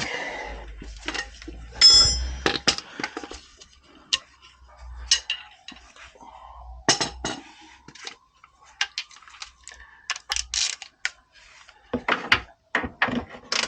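Metal hand tools clinking and clattering in a string of sharp, irregular clinks, some ringing briefly, as wrenches and sockets are handled.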